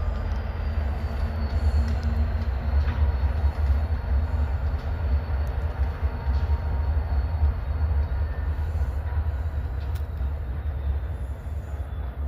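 Three EMD SD60M diesel-electric locomotives running light with no cars: a steady low engine rumble with a few clicks from the wheels and track, easing off slightly near the end.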